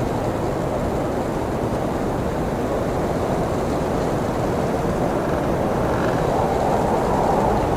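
Blizzard wind: a steady low rushing noise of a heavy snowstorm that swells slightly near the end.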